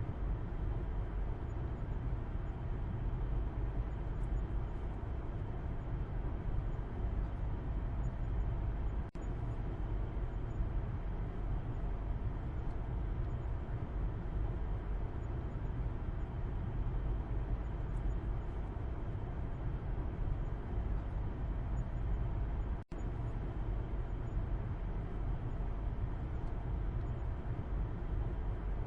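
Car interior heard from the back seat while driving: a steady low road and engine rumble with a duller hiss of tyre and wind noise above it. The sound drops out for an instant twice.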